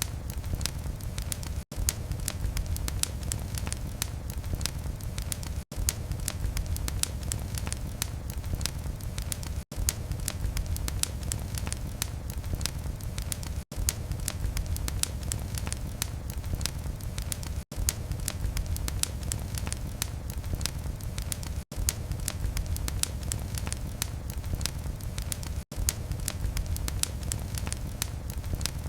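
Fire burning in a fireplace: a steady low rumble of flames with many small, sharp wood crackles and pops. A very brief dropout comes about every four seconds.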